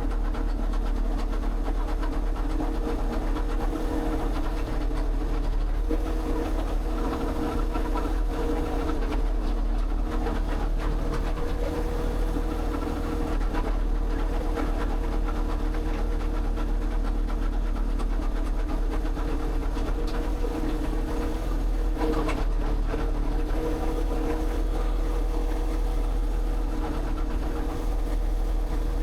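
A motor running steadily, a constant hum with a low rumble beneath it.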